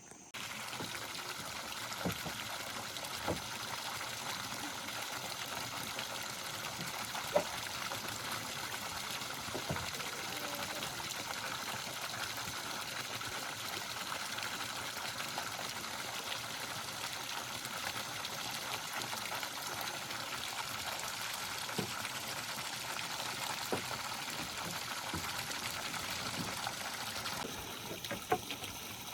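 Water trickling and running steadily, with a few scattered light knocks.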